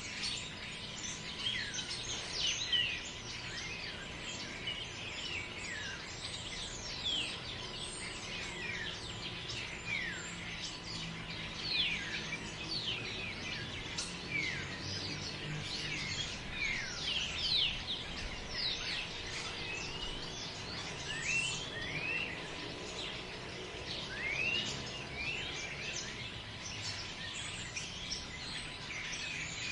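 Forest ambience: many birds chirping together in quick, short, sweeping notes, over a low, steady wind noise.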